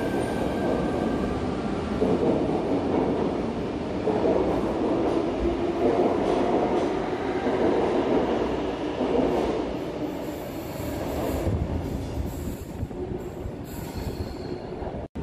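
Sydney Trains double-deck electric train pulling out of an underground station platform, its carriages running past close by. The noise eases after about ten seconds as the last car clears the platform.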